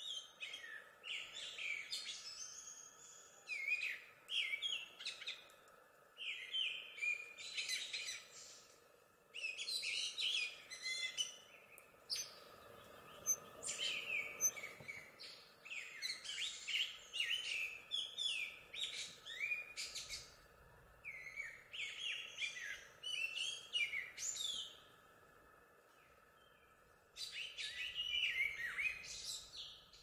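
A songbird singing in repeated short phrases of quick rising and falling chirps and whistles, with brief pauses between phrases.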